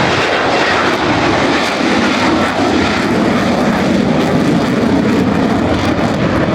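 Loud, steady engine noise of an airplane in flight.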